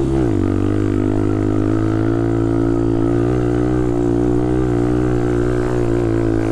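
Dirt bike engine running at steady speed under the rider, its note dropping right at the start and then holding steady, with wind rushing past.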